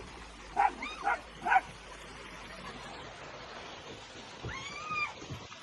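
High-pitched cries from a pet animal: three short calls about half a second apart, then one longer call that rises and falls near the end.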